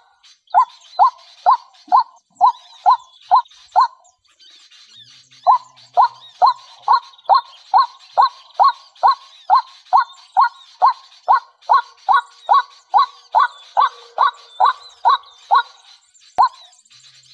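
A bird giving the same short, loud call over and over, about two calls a second, with a break of about a second and a half near the start. Fainter, higher chirping of other birds runs behind it.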